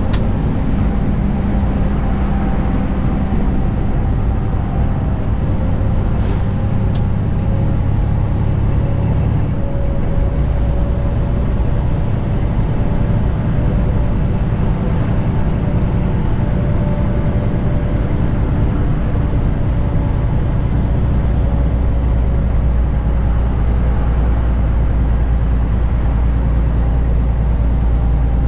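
Detroit DD15 inline-six diesel of a 2021 Western Star 4900 running steadily at highway cruise, heard from inside the cab as a heavy low drone, pulling a load of about 26,000 pounds. A single short click about six seconds in.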